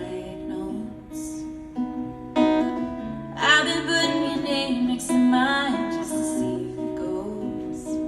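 Acoustic guitar strummed in a slow song accompaniment, chords ringing between strokes.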